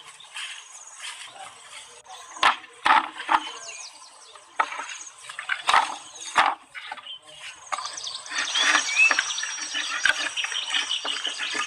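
A series of sharp knocks and snaps, followed by a steadier rustling, with a few short bird chirps heard over it.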